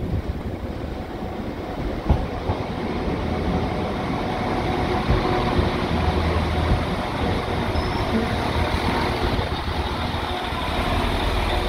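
Northern Class 195 diesel multiple unit running into the platform and drawing alongside, its engines and wheels making a steady rumble that grows louder as the train comes close. A single knock sounds about two seconds in.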